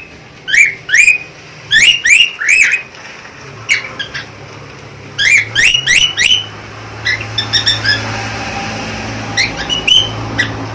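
Budgerigar calling: loud, short, sharp chirps coming in quick clusters of two to four, with a lighter twittering in between.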